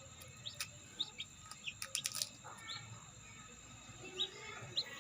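Newly hatched parrot-beak chicken chicks peeping: short, high, upward-sweeping peeps scattered through, with a few sharp clicks about two seconds in.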